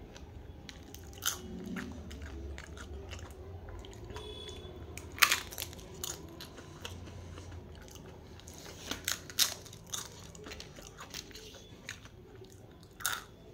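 A person chewing and biting food close to the microphone, with a handful of sharp crunches scattered through the chewing.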